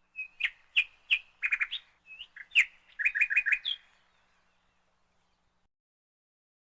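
A songbird singing a run of short, sharp chirps and quick repeated notes, which stops about four seconds in.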